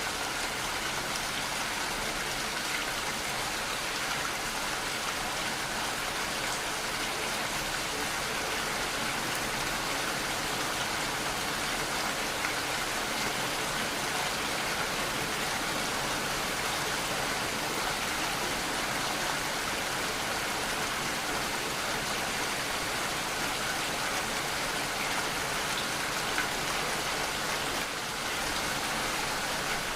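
Steady rainfall, an even hiss of rain falling on surfaces with no let-up.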